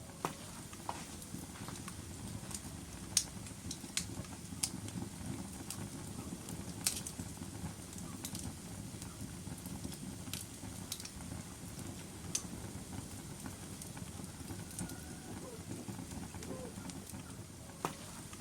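Log fire burning in a fireplace: a steady low rumble of flames with about ten sharp crackles and pops at irregular intervals.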